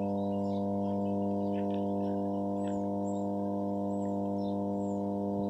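Electrical power transformer humming steadily: a low, even drone with a stack of higher overtones that neither rises nor falls.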